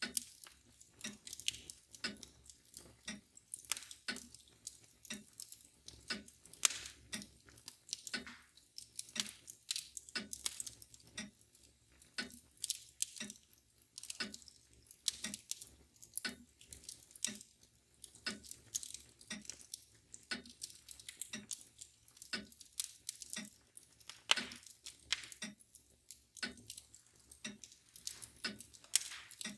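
Fire crackling with irregular sharp pops, over the steady ticking of a mantel clock at about two ticks a second.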